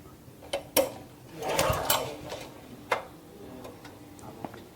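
Sharp clicks and knocks from the controls of the compressor's Honda GX160 engine being worked before a start, with a short rasping noise of about half a second between them; the engine is not running yet.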